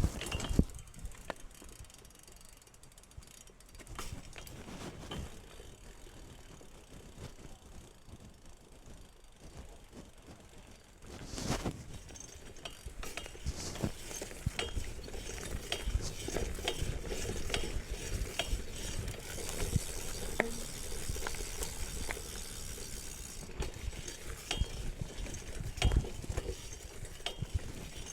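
BMX bike's rear hub ratchet clicking as the bike coasts. About eleven seconds in there is a sharp knock, and the rolling noise and clicking get louder from then on.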